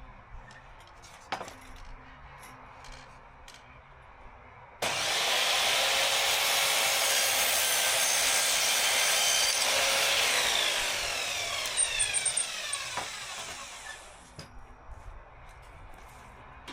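Electric power saw cutting through a wooden panel for about six seconds, starting suddenly about five seconds in, then the blade spinning down with a falling whine that fades out. A few light knocks from handling the wood come before the cut.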